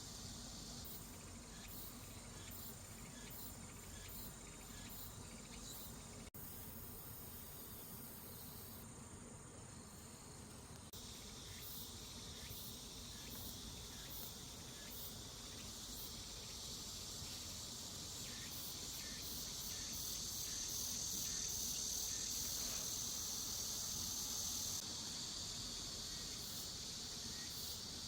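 Late-summer insects chirring, crickets among them: a steady high-pitched buzz with faint repeating chirps, growing louder partway through and easing slightly near the end.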